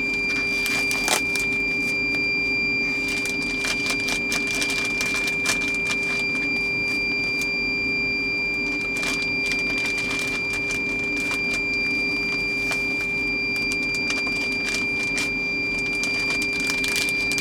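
Plastic meat packaging and zip-top bags being handled, giving irregular crinkles and clicks throughout, over a steady electrical hum.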